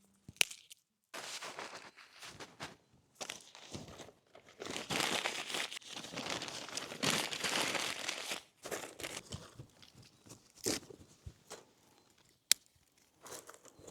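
Crinkling and crumpling of wrapping material being handled, in irregular rustling bursts, with a few sharp clicks and knocks.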